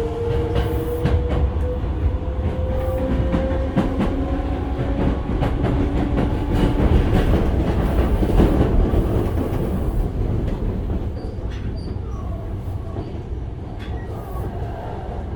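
Osaka Metro 66 series train heard from inside the car: the GTO-thyristor VVVF inverter's whine rises slowly in pitch as the train accelerates, then fades out after a few seconds. Under it is a steady wheel-and-rail rumble, with clacks over rail joints.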